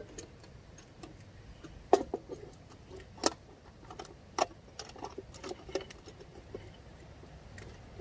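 A dozen or so irregular clicks and light knocks, the loudest about two, three and four seconds in, over a faint steady background.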